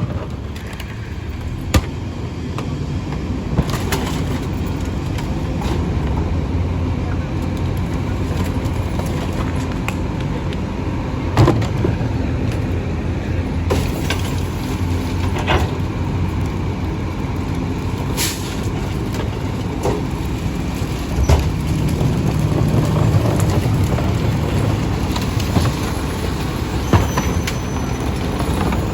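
Split-body garbage truck running steadily, with a few sharp knocks and clanks scattered through.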